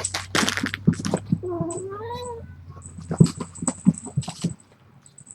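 A cat gives one drawn-out meow about a second and a half in, among scattered light clicks, taps and rustling.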